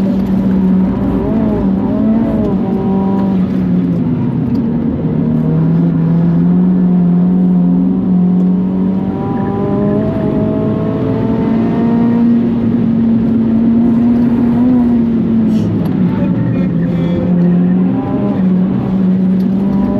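Turbocharged four-cylinder engine of a modified Mitsubishi Colt R running hard under load, heard from inside the car. The engine note holds steady, then slowly climbs and falls back several times as the car drives on.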